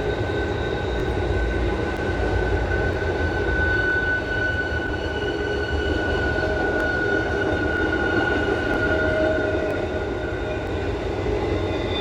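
A train rolling past: a steady low rumble with thin, steady high-pitched tones ringing over it.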